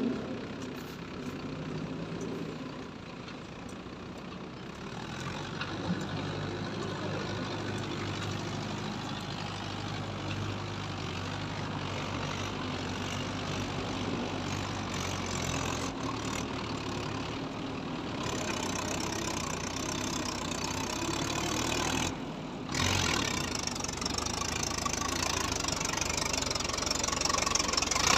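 Tractor diesel engine running steadily. It briefly drops out about 22 seconds in, then carries on a little louder.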